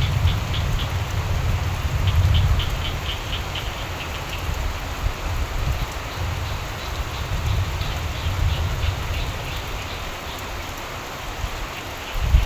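Steady rainfall with frogs croaking in runs of quick, evenly spaced pulses, about four a second, twice in the first few seconds and fainter again later. A low rumble sits underneath.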